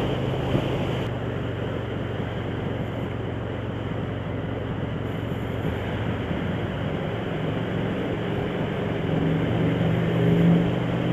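Motorcycle engine running steadily under wind and road noise, heard from the moving bike; the engine note rises and grows louder near the end.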